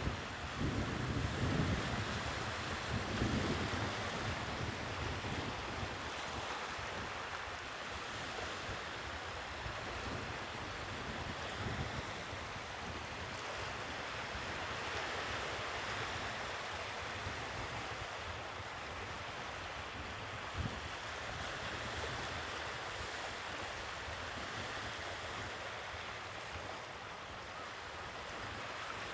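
Sea waves washing steadily on the shore, with wind rumbling on the microphone during the first few seconds.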